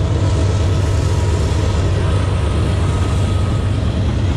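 Passing train rumbling steadily, a loud even low rumble with no horn sounding.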